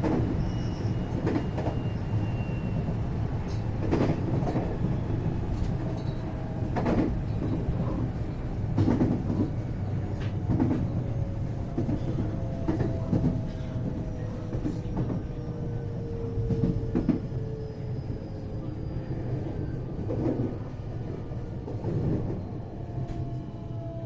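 521 series electric train heard from inside its motor car while slowing: steady rumble of wheels on rail with irregular knocks over rail joints, and a motor whine that slowly falls in pitch as the train decelerates into a station.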